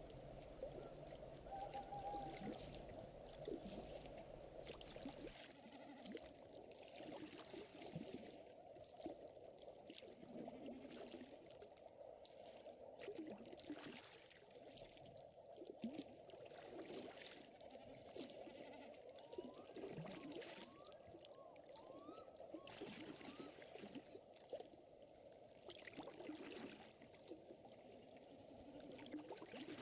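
Faint lakeside ambience: water lapping and trickling with the light, irregular crackle of a small fire, and a few short rising chirps a little over halfway through.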